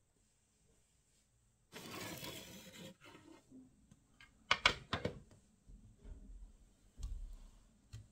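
Handling noise from small objects: a rustling, tearing-like burst lasting about a second, then a few sharp clicks and light knocks.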